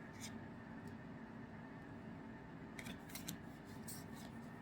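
A few soft, crisp clicks and crinkles of trading cards and their packaging being handled, a brief cluster about three seconds in, over a low steady hum.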